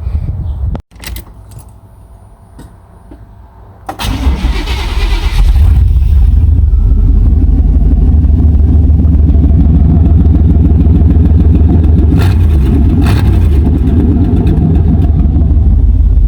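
A 1989 Chevy pickup engine is cranked by the starter about four seconds in, catches after a second or so, and settles into a loud, steady idle. Its catalytic converter has been cut off and the exhaust runs through only a muffler. The owner says the engine sounds kind of funny and misses every once in a while.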